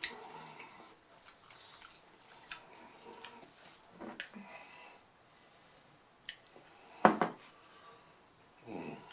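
Close-miked eating of crunchy mini beef tacos: wet chewing, mouth smacks and short crisp clicks from the taco shells, with a louder burst about seven seconds in.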